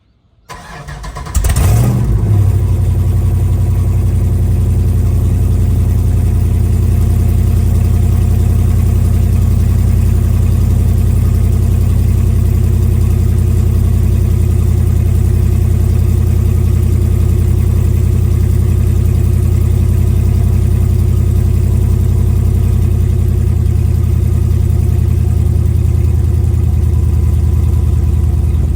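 A 392 Hemi V8 (6.4 litre) swapped into a 2005 Dodge Ram cold-starts: it cranks briefly, catches about a second in with a loud flare, then settles into a steady cold idle through its headers and aftermarket mufflers.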